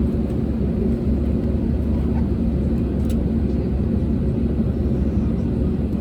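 Airbus A320neo's Pratt & Whitney geared turbofan engines and airframe giving a steady, even low rumble, heard from inside the cabin on the ground.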